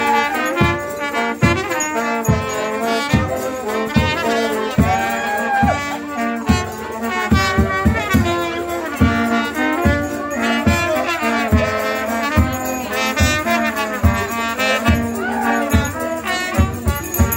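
Brass band playing a lively tune, with brass melody over a bass drum beating about twice a second.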